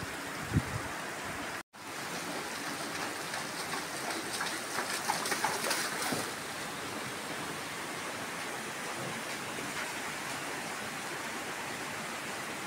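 Heavy rain falling steadily, an even dense hiss that swells a little a few seconds in.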